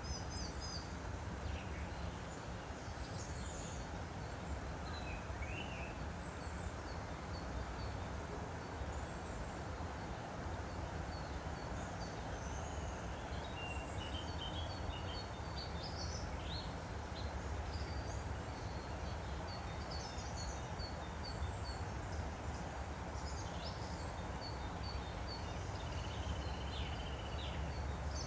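Steady rush of flowing stream water, with small birds chirping and trilling over it throughout.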